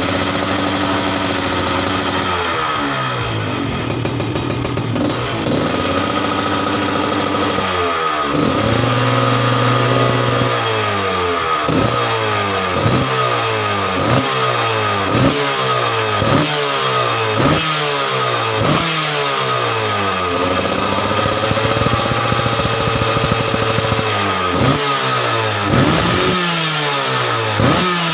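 Yamaha F1ZR two-stroke single-cylinder engine running through an aftermarket expansion-chamber exhaust, idling and then revved: short throttle blips about once a second that rise and fall back, with a couple of longer, held revs in between.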